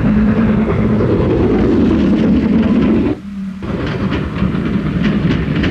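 Steam-hauled express train running at speed, a steady loud rumble. About three seconds in it cuts out sharply for about half a second, then returns with a rapid rhythmic clatter.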